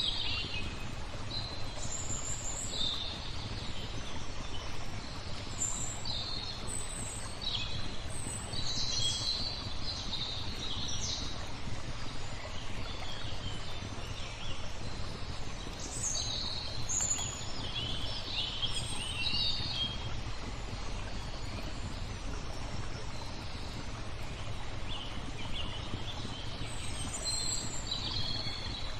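Small birds chirping and trilling in scattered bursts, busiest in the first few seconds, around a third of the way in and again near the end, over a steady low background noise.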